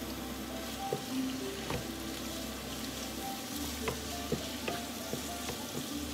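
Sliced mushrooms and onion sizzling in hot oil in a frying pan, stirred with a wooden spatula that knocks and scrapes against the pan now and then.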